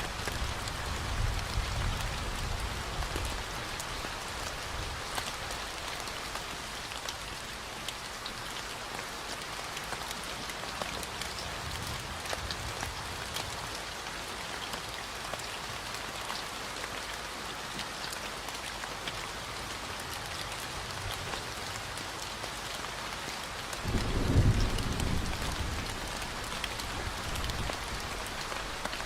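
Steady rain falling, a dense patter of drops. Late on, a short low rumble of thunder swells and fades.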